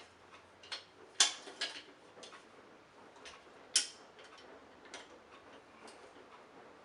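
Scattered clicks and light knocks from handling the parts of a Hoover Senior upright vacuum cleaner, with two sharper knocks about a second in and just before four seconds.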